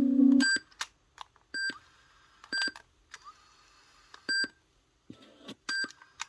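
Background piano music ends about half a second in. Then come a string of short, high electronic beeps at irregular intervals with faint clicks between them, like button presses on the Sony WM-FX909 cassette Walkman, each press answered by its beep.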